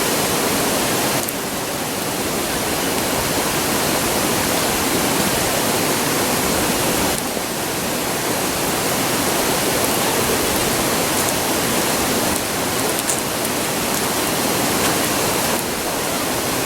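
A river rushing: a steady, loud roar of flowing water. A few faint crackles from the wood campfire come through it.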